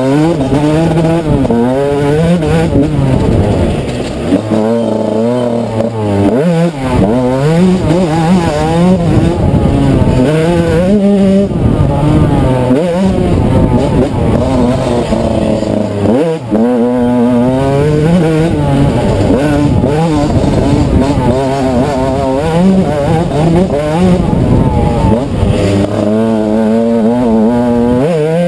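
Dirt bike engine heard from the bike itself on a trail ride, its revs rising and falling over and over with the throttle, with short lulls where the throttle closes about four, six and sixteen seconds in.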